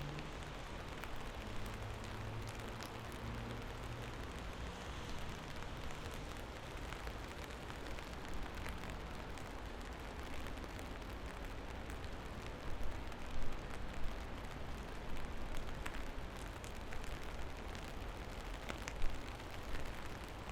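Steady rain falling, with many close raindrops ticking against a surface over a low rumble. A low hum fades out in the first few seconds, and a few louder drop hits come about two-thirds of the way in and again near the end.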